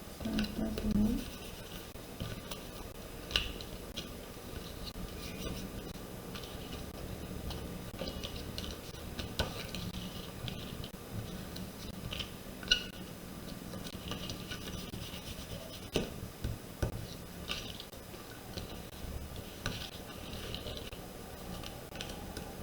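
Paper and card stock being handled, rubbed and pressed down while gluing, with scattered light taps and clicks over a faint steady hum.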